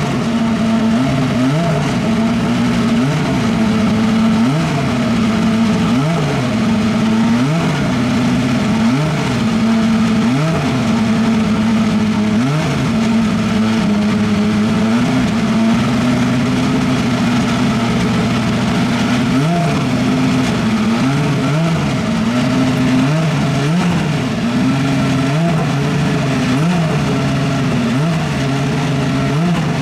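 Super Formula race car's two-litre turbocharged four-cylinder Honda engine running during its warm-up, with the throttle blipped over and over so the revs rise and fall about once a second, steadier for a few seconds in the middle.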